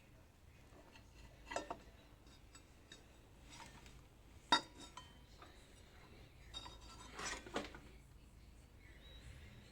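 Hard objects clinking and clanking as they are handled: a pair of sharp knocks about a second and a half in, a louder single clank about halfway, and a short cluster of clinks near the end, over a faint low hum.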